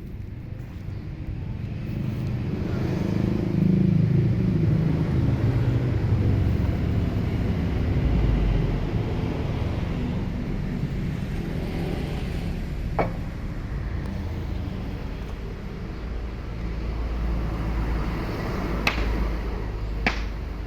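Low, steady rumble of sawmill machinery running, swelling over the first few seconds and then holding. A sharp knock comes about 13 seconds in and two more near the end.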